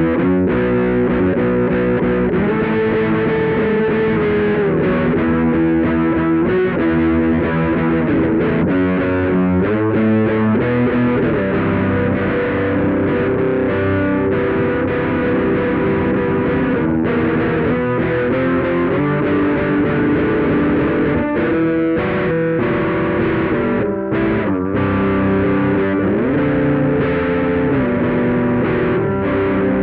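Electric guitar played through a DIY Sansamp Classic-style distortion pedal built from a rebuilt opamp Big Muff Pi: thick, compressed distorted chords held and changed every second or two, with slides between some of them.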